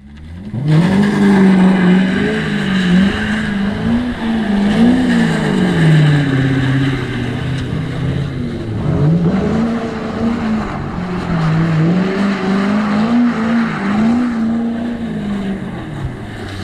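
Chevrolet Corvette V8 engine under way, its pitch climbing and dropping again and again as it is revved and shifted through the manual gearbox.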